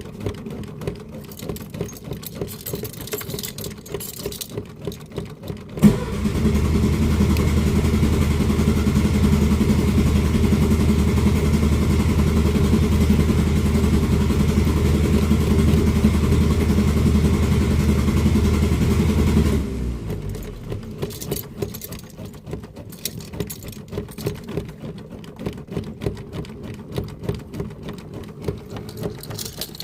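A car engine being cranked on its starter in an attempt to start it. After a sharp click about six seconds in, there is a steady mechanical whir for about fourteen seconds, which then stops. It is cranking without catching: the car won't start. Scattered light clicking comes before and after the cranking.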